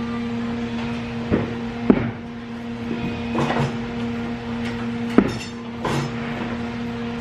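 Sharp knocks and clatter of hard objects being handled, a few separate hits over several seconds, over a steady electrical hum.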